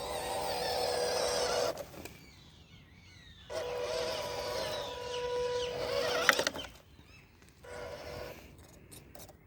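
Electric motor and gear drive of an MN168 RC crawler whining in bursts as it drives and stops: about two seconds of running, a pause, about three seconds more, then a short burst near the end.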